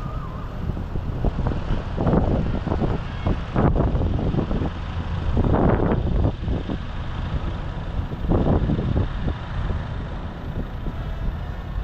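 Tractor engines running as a procession of tractors drives past, a steady low rumble with several louder surges as individual machines go by.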